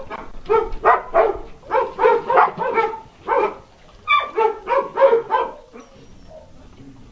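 A dog barking in a rapid series of short barks, about a dozen, that stop about five and a half seconds in.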